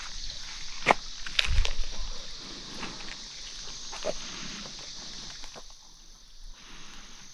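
Footsteps on a trail, a few crunching steps and one low thump in the first two seconds, over a steady high chorus of insects.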